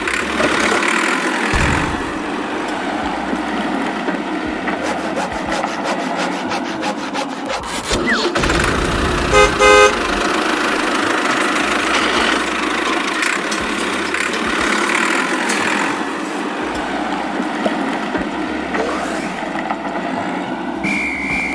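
A vehicle engine runs steadily, and a horn toots twice in quick succession about nine to ten seconds in.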